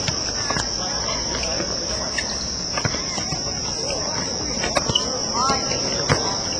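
Insects buzzing steadily on one high pitch, with a few sharp knocks scattered through and a faint shout about five seconds in.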